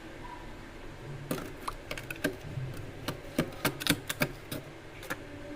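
A quick, irregular run of sharp clicks and knocks, hard objects being handled and knocked together, over a steady low hum.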